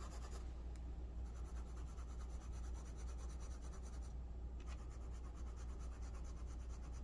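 Broad-nib fountain pen writing on thin onion skin paper: a faint, steady scratching of the nib, over a constant low hum.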